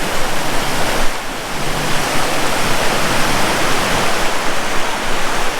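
Waterfall in spate after heavy rain: loud, steady rushing of falling water.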